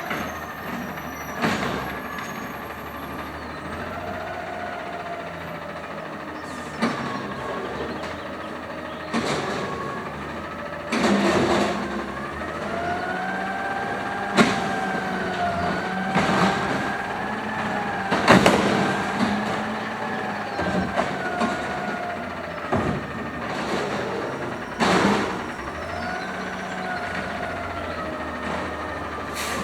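2012 automated side loader garbage truck working its hydraulics: a whine that rises and falls with the engine, with about eight loud metallic bangs as the recycling cart is slammed against the hopper to empty it.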